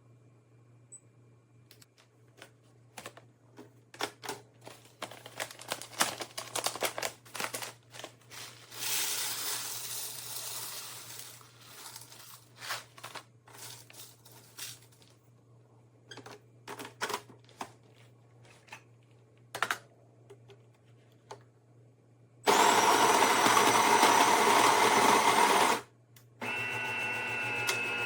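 Espresso machine being handled, with scattered clicks and knocks. Then a loud, steady motor whir runs for about three seconds, and after a short pause a quieter, steady pitched hum runs for about two seconds.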